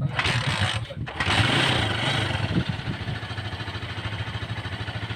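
Freshly overhauled Rusi 150 single-cylinder motorcycle engine running just after being started. The revs are uneven for the first couple of seconds, then it settles into a steady, evenly pulsing idle.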